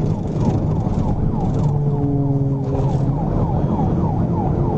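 Police cruiser siren on a rapid yelp, several falling wails a second, over the engine and road noise of a car at pursuit speed. A steady low drone joins about a second and a half in.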